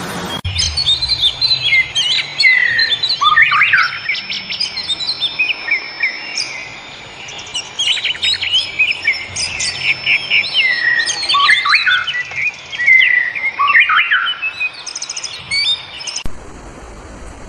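A songbird singing a long, varied run of sharp chirps, slurred whistles and a few held high whistles, stopping abruptly about a second before the end.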